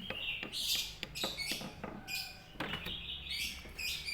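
Birds chirping repeatedly in short, high calls, with a few light clicks between them.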